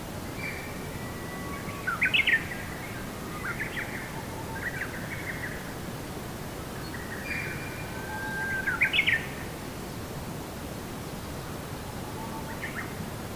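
A songbird singing repeated short phrases of whistled notes and quick sweeps. The loudest phrases come about 2 s and 9 s in, with softer notes between, over a steady background hiss.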